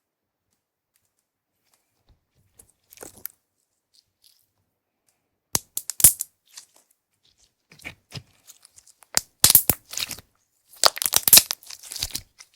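Slime being squeezed and stretched by hand, making crackling clicks and pops. It begins a couple of seconds in and comes in quick clusters that grow louder and denser in the second half.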